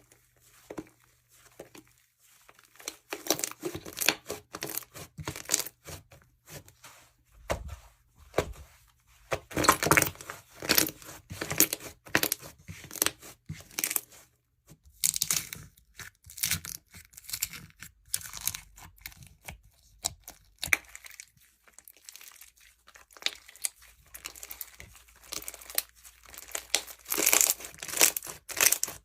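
Jewelry slime, slime packed with small plastic beads and charms, being squeezed, pressed and stretched by hand. It crackles, crinkles and clicks in irregular bursts with short lulls.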